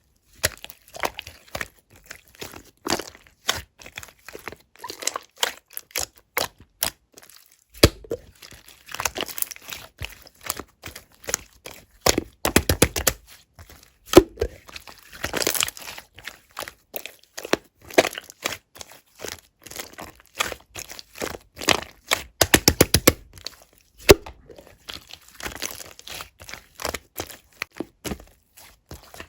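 Clear slime being pressed, folded and stretched by hand, giving many sharp clicks and pops as trapped air pockets burst. Twice there is a quick run of rapid, evenly spaced clicks.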